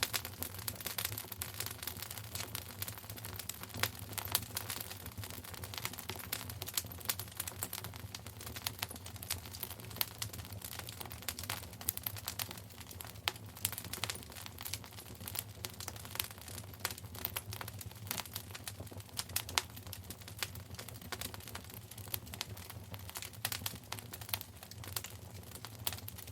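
Wood fire crackling in a fireplace: a dense, irregular run of small pops and snaps over a low, steady rumble.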